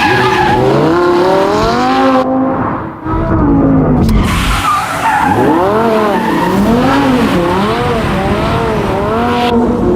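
Lamborghini Huracán's V10 revving up and down again and again with tyres squealing as it drifts in circles, doing donuts. There is a brief dip in the sound about three seconds in.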